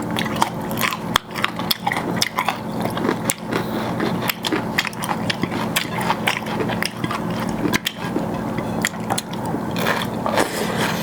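Person eating close to the microphone: chewing and biting into crisp deep-fried chicken and rice, a run of irregular wet clicks and crunches.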